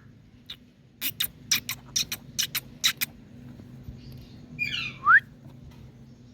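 Indian green parrot giving a quick run of about nine short, sharp clicking chirps over two seconds, then a harsh call that ends in a short rising whistle.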